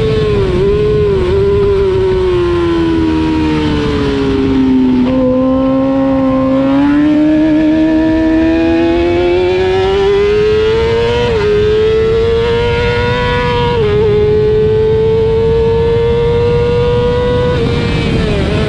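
Racing motorcycle engine heard onboard at speed. The revs fall for about five seconds as it brakes and changes down, with a jump in pitch when a gear goes in. It then climbs steadily under acceleration and holds high revs with brief steps, over steady wind and road noise.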